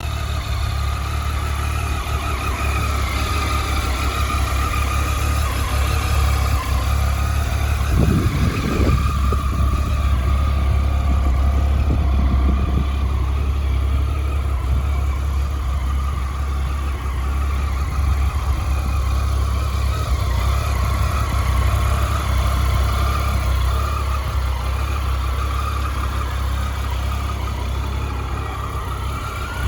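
Triumph Tiger 800's three-cylinder engine idling steadily.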